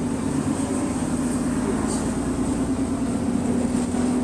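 Bus engine and exhaust running steadily, heard from inside the bus, with the drone of an exhaust leak.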